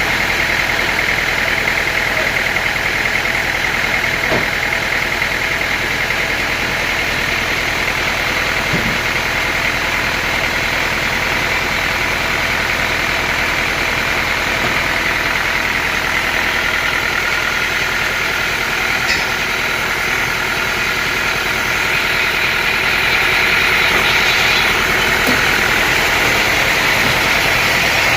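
Sawmill machinery running steadily: an engine at constant speed with a continuous high whine. It gets slightly louder about three quarters of the way through.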